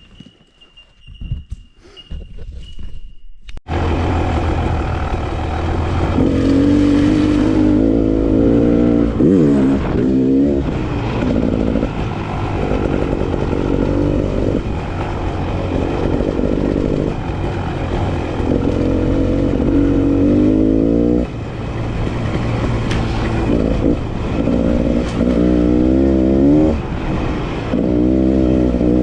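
Enduro dirt bike engine coming in suddenly about four seconds in, then running hard with repeated rising revs as the bike is ridden.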